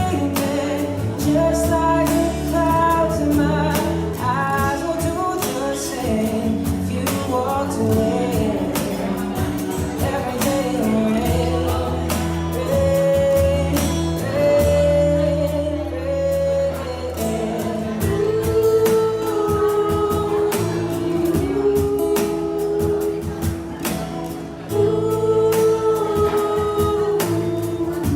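A singer's voice with band accompaniment, in long, held, gliding notes.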